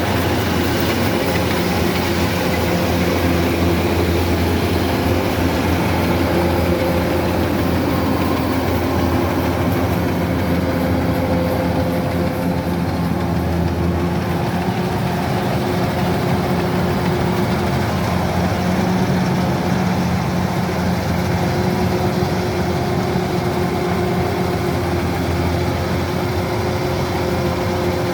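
Kubota DC-105X combine harvester running steadily, a constant mechanical drone that holds the same pitch throughout.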